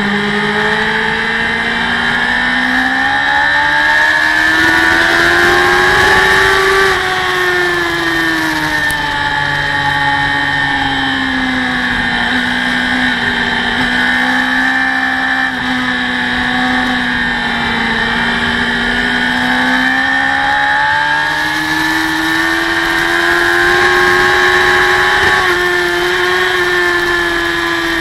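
Racing motorcycle engine running hard at high revs, heard from an onboard camera with wind rushing past. The engine note climbs over the first few seconds, eases down slowly through the middle, and climbs again about three quarters of the way through.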